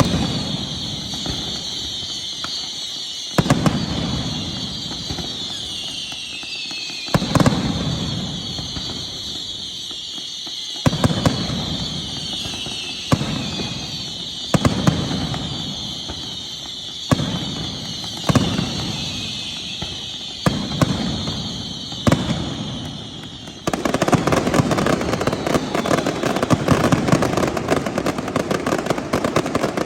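Fireworks exploding: sharp bangs every couple of seconds, each trailing off in a low rumble, over a steady high hiss with whistles sliding down in pitch. About 24 seconds in, the firing turns into a dense, rapid barrage of cracks.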